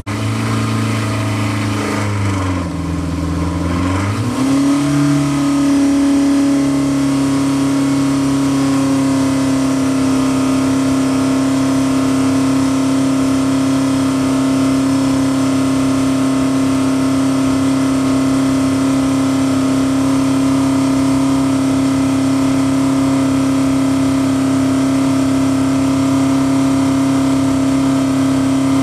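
1.8-litre Ford Crossflow four-cylinder engine running on an engine dynamometer. In the first few seconds the revs drop and climb back, then the engine is held at a steady speed.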